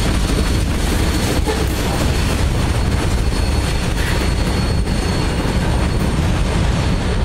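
Freight train cars rolling past at close range: a steady rumble of steel wheels on the rails, with a few faint clicks.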